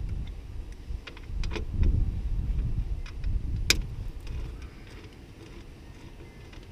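Scattered clicks and knocks of hand tools and hardware while the S10's third-door panel, held by T27 Torx screws, is taken apart, over a low rumble; one sharp click stands out about three and a half seconds in, and the rumble fades near the end.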